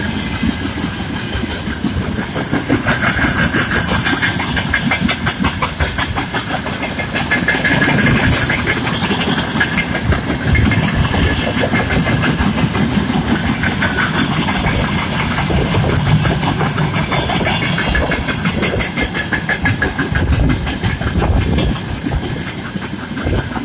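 Freight train wagons rolling past, their wheels clicking in quick runs over rail joints above a steady rumble, with a thin high squeal coming and going.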